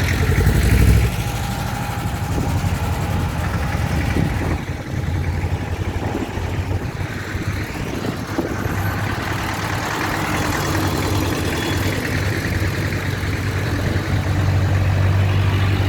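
Tractor engines running steadily, a low hum that is loudest about a second in.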